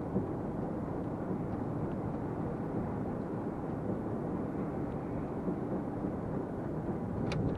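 Steady engine and road noise inside the cab of a 2023 MAN TGX 470 diesel lorry on the move, with a single sharp click near the end.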